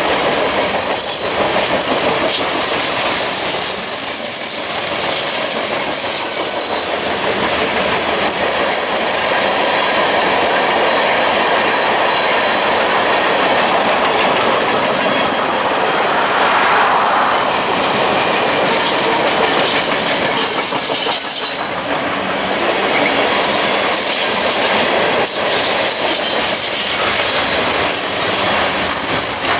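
A train rolling by at close range, its steel wheels squealing on the rails in thin high-pitched tones over a steady rumble, with occasional clicks of wheels crossing rail joints.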